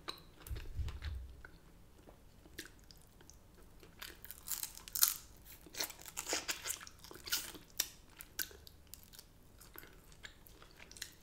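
A person biting and chewing crispy oven-cooked chicken wings and curly fries, with irregular crunches that come thickest from about four seconds in. A dull low thump about a second in.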